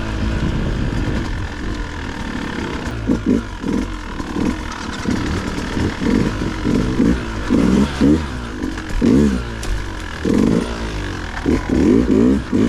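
Dirt bike engine running and being revved in short throttle bursts, each a quick rise in pitch, coming more often toward the end as it picks its way over rough ground.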